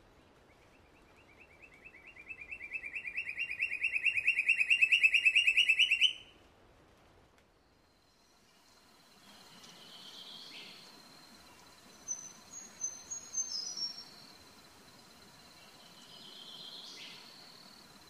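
A bird calling: a fast pulsing trill that grows louder and rises slightly over about five seconds, then stops abruptly. After a pause, a few short high chirps follow.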